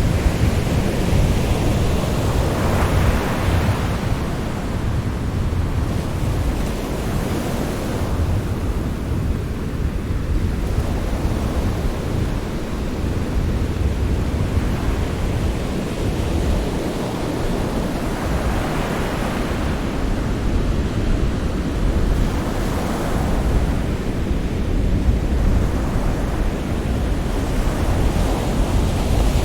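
Sea waves surging and washing in, swelling every few seconds over a constant deep rumble of surf.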